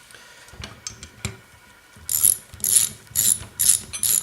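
Socket ratchet wrench clicking in repeated back-and-forth strokes, about two a second, snugging down a 14 mm fitting on a Zenith 35/40 carburetor. A few light metallic clicks come first, before the ratcheting starts about two seconds in.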